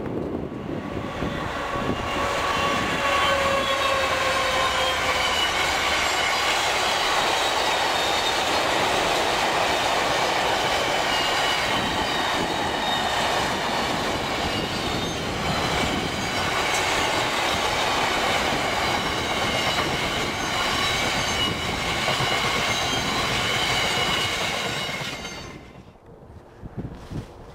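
A Class 66 diesel locomotive passing close by, followed by a long rake of tank wagons rolling past with steady high wheel squeal over the noise of the wheels on the rails. The sound drops away suddenly near the end.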